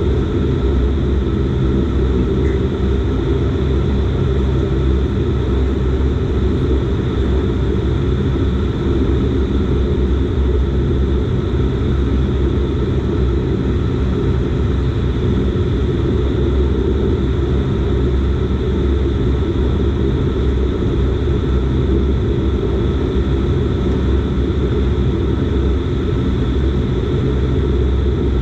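Dash 8 Q400's Pratt & Whitney PW150A turboprop engine and six-blade propeller running steadily: a loud, even drone of low tones with a fainter high whine, holding the same pitch throughout.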